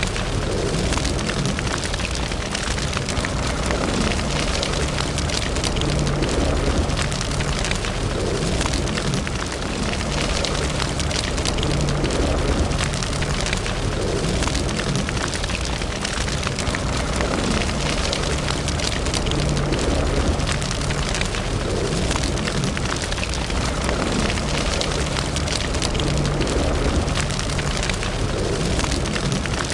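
Wood fire burning in a fireplace: a steady dense crackling and hiss of burning logs over a low rumble.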